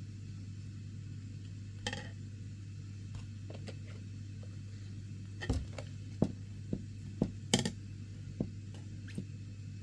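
Scattered light knocks and clinks, one about two seconds in and a cluster of about eight from about five and a half seconds on, over a steady low hum.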